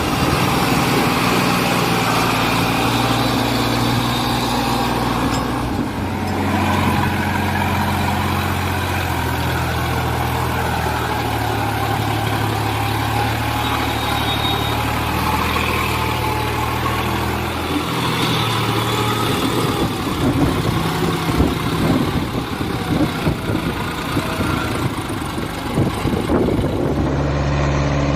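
Engine running steadily with a low hum, its pitch shifting a couple of times, and rougher rattling in the last third.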